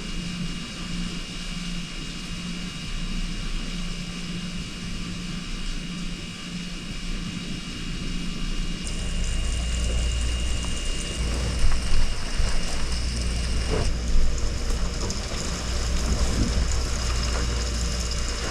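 Steady mechanical hum like a running vehicle. About nine seconds in, a deep low rumble and more hiss join in, with a couple of sharp knocks a few seconds later.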